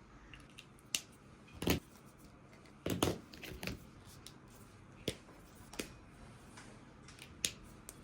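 Scattered small clicks and knocks of objects being handled, with two louder thumps about two and three seconds in.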